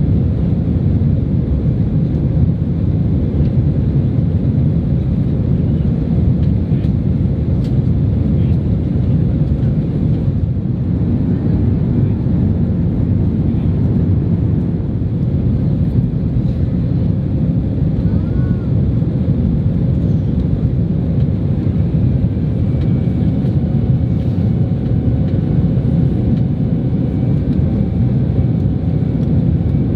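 Boeing 767-300 cabin noise heard from an economy seat: a steady, loud low rumble of the jet engines and airflow.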